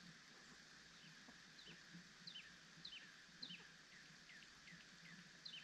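Faint bird chirps: a run of short, high notes, each falling in pitch, about two a second.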